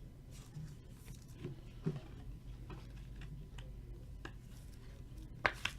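Light clicks and taps of trading cards and their plastic holders being handled on a table, a louder tap about two seconds in and a sharp click near the end, over a low steady hum.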